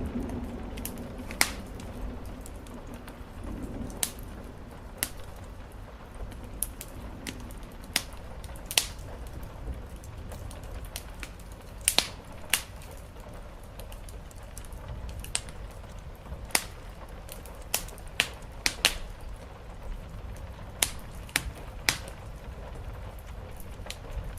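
Wood fire crackling in a fireplace, with irregular sharp pops over a steady hiss of rain on the roof. A low thunder rumble fades out in the first few seconds.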